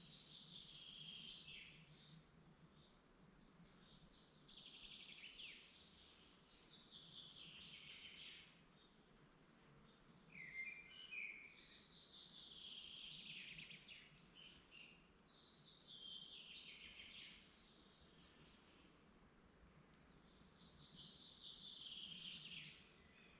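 A songbird singing the same short phrase over and over, about six times, each phrase falling in pitch as it goes, with a short lower call in between about ten seconds in; faint, over a quiet woodland background.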